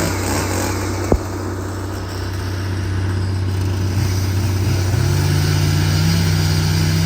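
Excavator's diesel engine idling steadily while it warms up, with a sharp click about a second in and a tone that steps up in pitch about four and a half seconds in and then holds.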